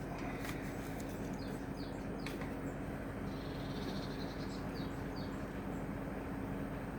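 Steady background hum and hiss with a few faint, short, high bird chirps and a couple of light clicks, with no clear rhythm of saw strokes.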